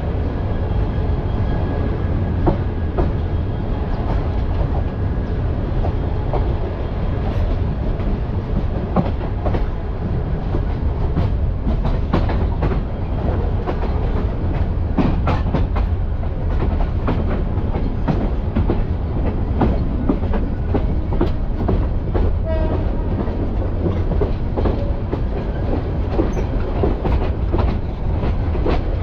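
Passenger train coach running along the track, heard from aboard: a steady low rumble with the clickety-clack of wheels over rail joints and many sharp knocks and rattles.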